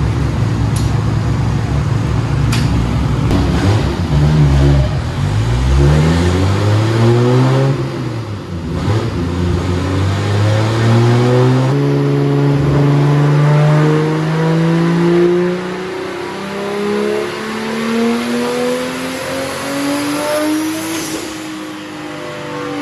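Car engine accelerating hard through the gears: a low rumble, then the pitch climbs, drops at a shift about 8 seconds in, climbs again with another shift about 12 seconds in, rises slowly to a peak and falls off near the end.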